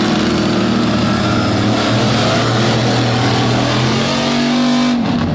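Big lifted-truck engines running at high revs under load in a tug-of-war pull. It is a steady, loud drone that climbs slightly near the end, then drops off suddenly about five seconds in.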